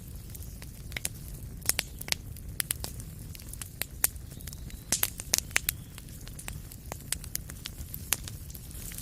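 Wood fire crackling in a fireplace: irregular sharp pops and snaps over a steady low rumble of flame, with a quick cluster of pops about five seconds in.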